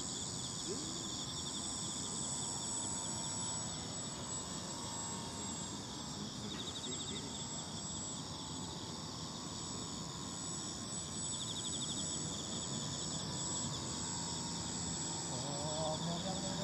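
Insects chirping steadily in pulsing trills, with the faint drone of a radio-controlled model airplane's motor and propeller in the distance, its pitch slowly wavering and growing a little louder near the end.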